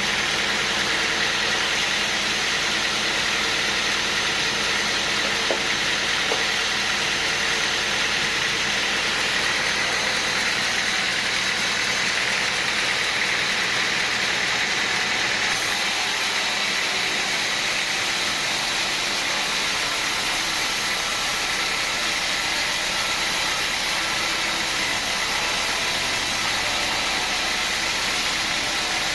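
Sawmill machinery running steadily: a continuous engine-like drone with a faint steady whine, unchanging in loudness.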